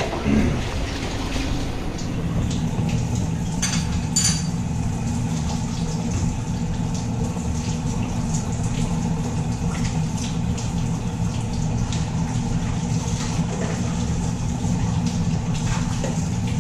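Diced onion, anchovies, olives and garlic frying in oil in a skillet with the heat turned up: a steady sizzle. Two short clicks about four seconds in.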